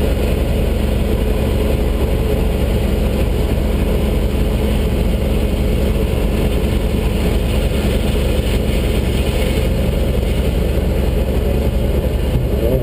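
Fire department brush truck's engine running steadily, a continuous low rumble with no marked revving or breaks.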